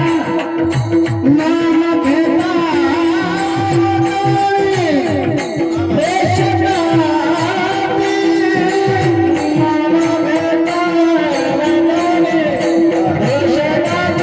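Marathi Varkari bhajan in raga Bhairavi: a sung melody that bends and glides over a steady held drone, with regular drum strokes and sharp cymbal-like strokes keeping the beat.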